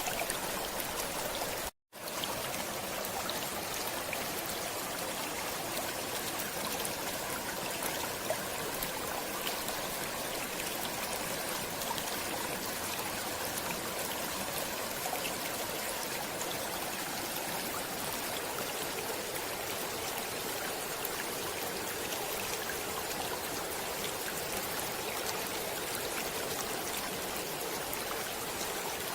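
Stream water flowing steadily, an even rushing with trickling. It cuts out for an instant about two seconds in, then carries on unchanged.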